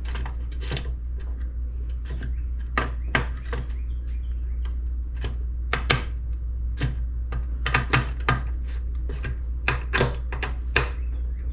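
Irregular clicks and light taps of a screwdriver and small metal parts as screws are driven in a crisscross pattern into an HEI distributor cap, over a steady low hum.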